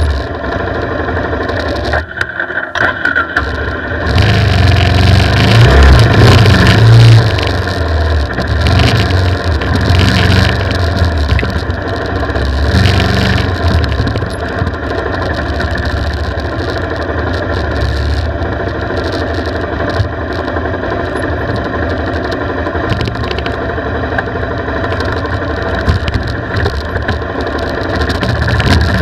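Four-stroke off-road motorcycle engine, heard close from a camera mounted on the bike, running along a dirt trail with the throttle opening and closing. It drops away briefly about two seconds in, then runs loudest a few seconds later, with smaller surges after.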